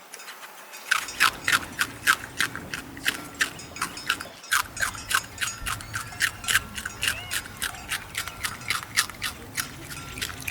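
Rabbit chewing, a quick, even run of crisp crunching bites, about three or four a second, starting about a second in.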